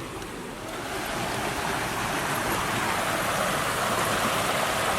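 Steady rushing of running water, swelling about a second in and then holding even.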